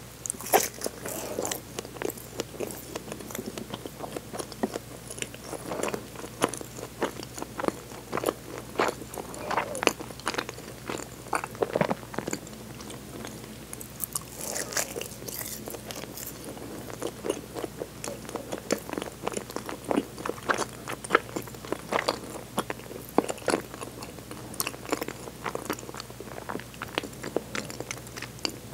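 Biting into a chocolate taiyaki and chewing it: soft bites and many small wet clicks of chewing. Two louder bites, about half a second in and again about halfway.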